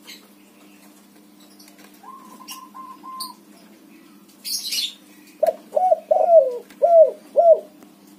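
Spotted dove (tekukur, a white colour variant) cooing: a phrase of five loud, arching coo notes in the second half, after fainter short notes and a brief rustle.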